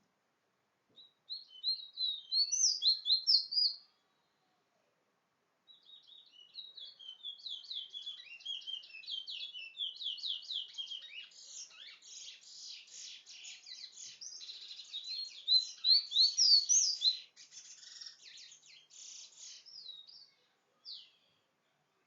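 A small songbird singing: a short warbled phrase near the start, a pause of about two seconds, then a long, fast run of high trills and chirps that gets loudest near the end and closes with one last short note.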